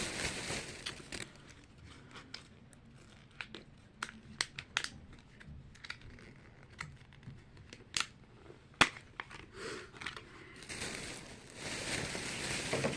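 Plastic packaging crinkling as it is handled and opened, with scattered light clicks and taps between. The crinkling is heaviest at the start and again over the last two seconds.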